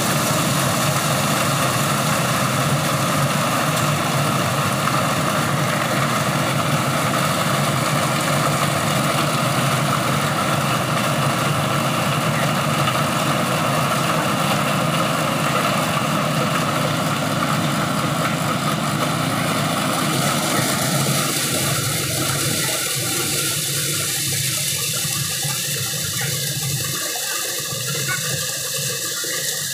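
Engine-driven corn sheller running steadily: a motor hum under a broad rushing noise of the threshing drum. About two-thirds of the way through the sound changes, its middle range thinning out while the hiss stays.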